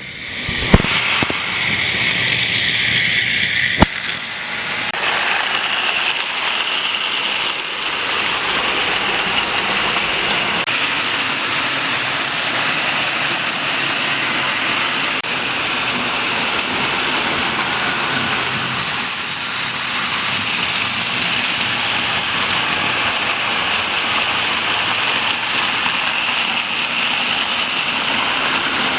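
Model train rolling along the track with a steady rumbling rattle, with two sharp clicks near the start.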